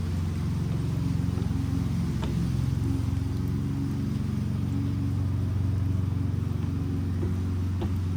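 Steady low hum of an engine running, the loudest sound throughout, with a few sharp pops from the burning wood of the fire, about two seconds in and near the end.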